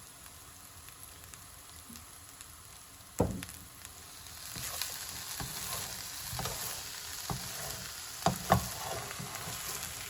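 Vegetable fried rice sizzling in a hot pan while a spatula stirs it, knocking and scraping against the pan. One loud knock comes about three seconds in, and the sizzle grows louder about a second later.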